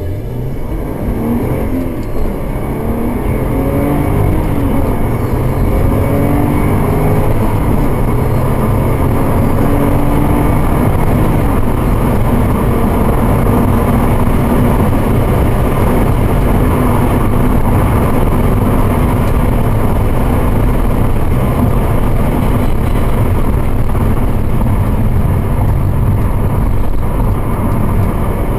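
Subaru Legacy's 3.0-litre EZ30 flat-six accelerating hard from low speed through the gears of its six-speed manual, the engine note rising and dropping back at each upshift over the first dozen seconds. It then settles to a steady note at cruising speed under loud road and tyre noise, heard from inside the cabin.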